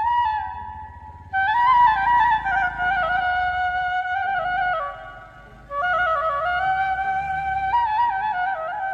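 A flute plays a slow folk melody in two phrases, with a short pause before each.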